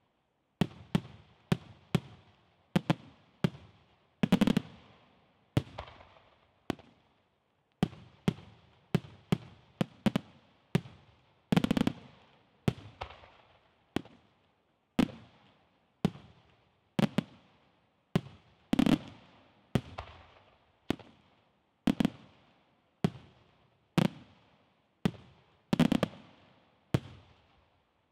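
Aerial firework shells bursting in a steady run of sharp bangs, about one to two a second, each trailing off in an echo. Every few seconds a heavier, deeper bang stands out.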